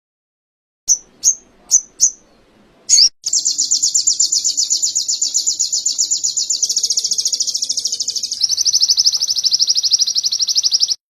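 A songbird singing canary-style song: four short high chirps, then a long, very rapid high trill lasting about eight seconds that shifts its pattern twice and stops abruptly.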